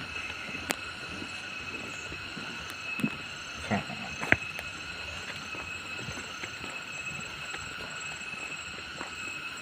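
A steady insect chorus of several constant high tones, with a faint pulsing line above them. A few short clicks and knocks come through it, the loudest a little after four seconds in.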